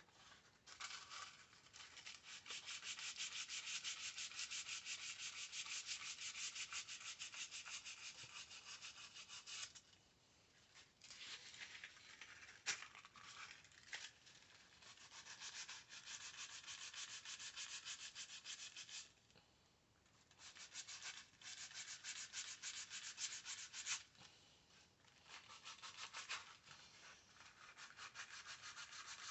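Fine 1000-grit sandpaper rubbed rapidly back and forth by hand over a JB Weld–filled crack in a headlight trim piece. The sanding comes in several stretches of quick, even strokes, broken by brief pauses.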